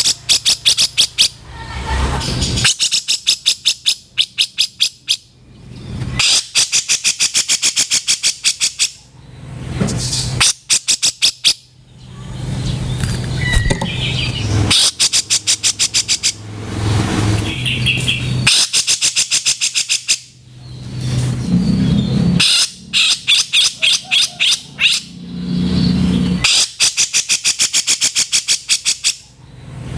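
Grey-cheeked bulbul (cucak jenggot) giving harsh chattering rattles in repeated bouts of one to three seconds. Each bout is a very fast train of sharp, clicking notes.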